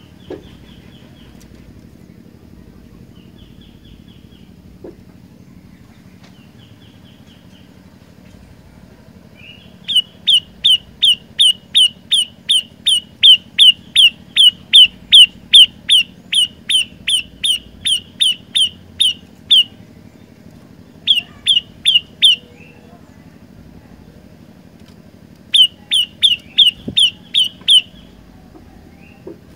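Olive-backed tailorbird (prenjak lumut) singing: a few faint short trills, then about ten seconds in a loud run of sharp, repeated call notes at about three a second, followed by two shorter bursts of the same notes.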